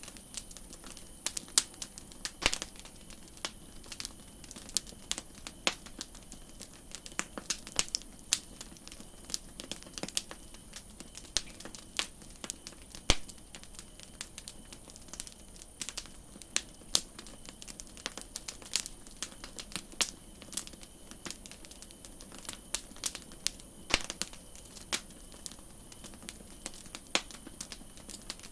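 Campfire crackling: burning wood giving off irregular sharp pops and snaps, several a second, over a faint steady high hiss.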